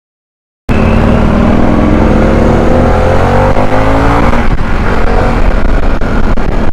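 Motorcycle engine under way, its note rising as the bike accelerates, over a steady rush of wind noise. It cuts in suddenly just under a second in.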